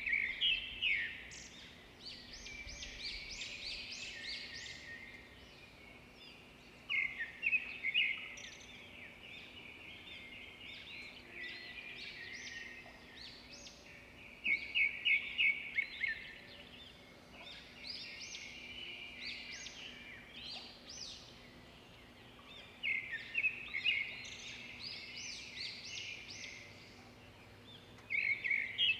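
A small bird singing in bursts of rapid, high chirps and trills every few seconds, over a faint steady hum.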